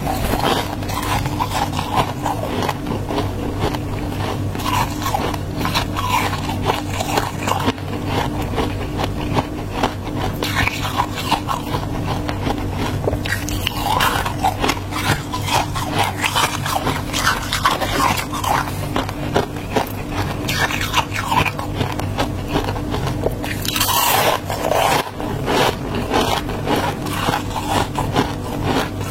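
Frost in a mini fridge's freezer being scraped and bitten, a dense run of irregular small crunches and scrapes. A steady low hum lies underneath.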